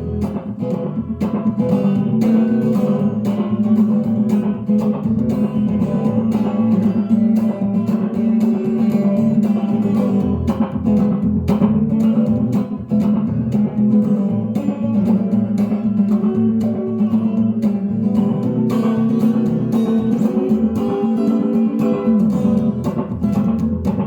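Guitar playing a steady, continuously picked passage, likely run through the restored Ecco-Fonic tube tape echo.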